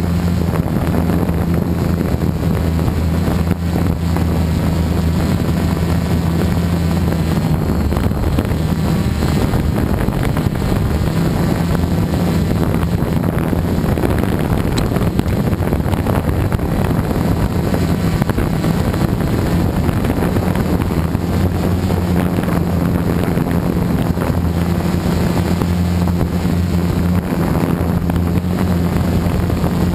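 Gaui 330X electric quadcopter's motors and propellers humming in flight, with wind buffeting the microphone. The low hum holds a steady pitch at first, wavers and breaks up through the middle stretch as the throttle changes, then steadies again near the end.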